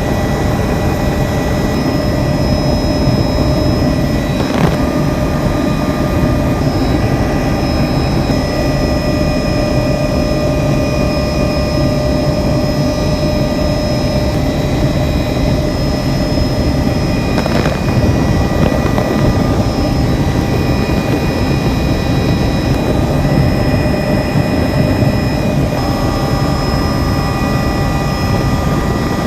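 Helicopter in flight: a steady, loud rush of engine and rotor noise with several constant high whining tones over it.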